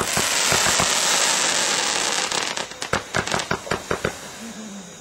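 Fireworks going off: a dense crackling hiss for about two and a half seconds, then a quick run of sharp pops that fades away.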